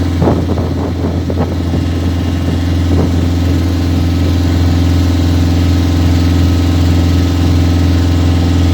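Small motor boat's engine running steadily under way, a constant low drone.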